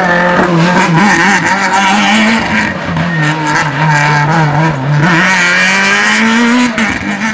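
Rally car engine running hard on a stage, its pitch rising and falling with throttle and gear changes. About five seconds in it climbs steadily, then drops suddenly near the end as the driver lifts or changes gear.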